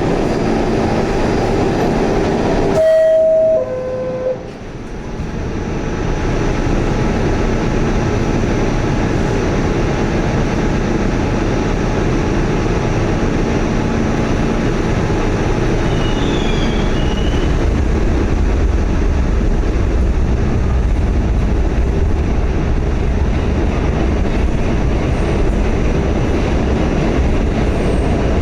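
Pullman-Standard R46 subway car's two-note falling door chime, then a sudden drop in the noise as the doors shut. The train then pulls out, its rumble building and growing deeper as it picks up speed.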